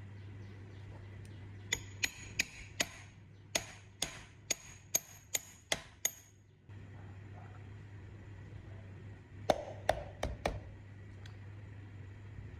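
Sharp metallic taps, like a hammer or tool striking metal parts: about eleven in a row at two to three a second, then a quick cluster of five a few seconds later. A steady low hum runs underneath.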